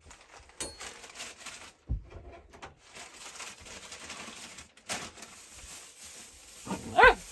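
A puppy whines once near the end, a loud high-pitched cry that bends in pitch, after several seconds of faint rustling and a few sharp knocks.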